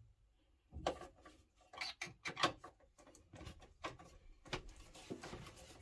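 Irregular small clicks and knocks of tools and parts being handled while the burnt-out relays in a Gledhill Electramate electric water heater are being replaced.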